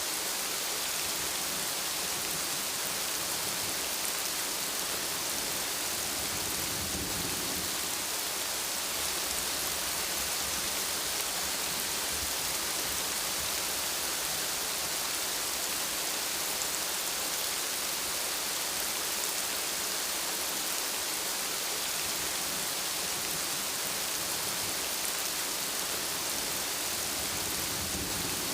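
Steady rain falling, an even hiss, with a brief low rumble of thunder about seven seconds in.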